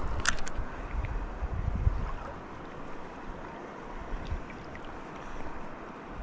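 Wind buffeting the microphone in gusts over a steady rush of water, with a few sharp clicks about a quarter second in.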